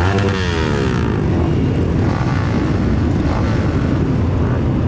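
Off-road trail motorcycle engines running, with one engine's pitch falling just after the start.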